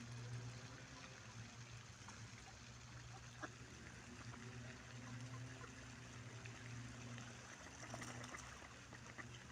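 Faint water lapping and trickling, with a low steady hum underneath and a few faint ticks.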